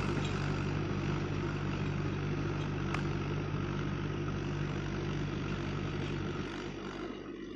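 Tractor engine running steadily, growing quieter near the end.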